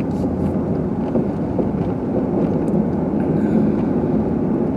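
Car driving on snowy roads, a steady low rumble of engine and tyre noise heard inside the cabin.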